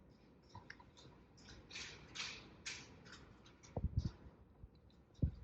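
Light, irregular metallic clicks and scrapes from hand tools and parts of a tractor powershift assembly as bolts are snugged down to take the play out, with a few low knocks about four seconds in and again near the end.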